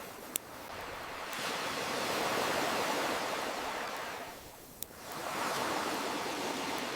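Ocean waves washing in and drawing back, swelling twice, with two sharp pops from a crackling campfire, one just after the start and one a little before five seconds in.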